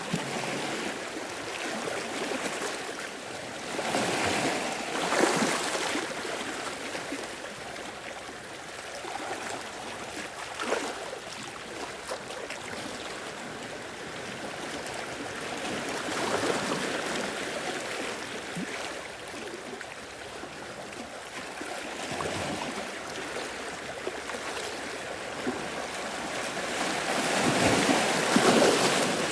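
Small sea waves washing and breaking on a shore, swelling louder in surges about 4 to 6 seconds in, around 16 seconds, and strongest near the end.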